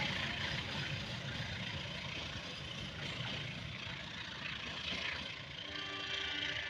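Locomotive-hauled passenger train pulling away along the track, the steady rumble and rail noise of its coaches growing slightly fainter as it recedes. About six seconds in, a steady sound of several held tones joins it.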